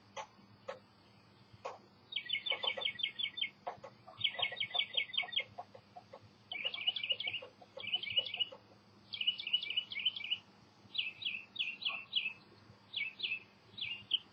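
A songbird singing phrases of fast, repeated high chirps with short pauses between them, the phrases getting shorter toward the end. Lower short calls sound beneath the first few phrases.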